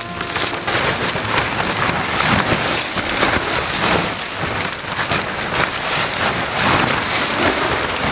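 Heavy rain falling: a dense, steady patter of many drops hitting.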